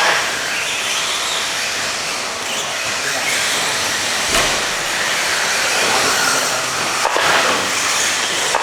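Several electric RC stadium trucks racing on the track, their motors and tyres making a steady hiss that swells and fades as they pass, with a couple of sharp knocks along the way.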